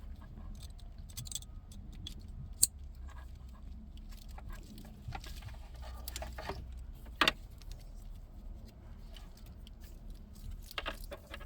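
Plastic wiring-harness connectors and cables being handled: scattered light clicks and rattles, with two sharper clicks about two and a half and seven seconds in, over a low steady hum.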